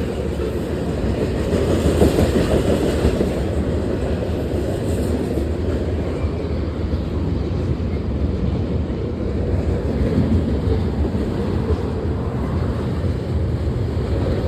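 A long train rolling past, its railcars making a steady rumble and rattle on the rails.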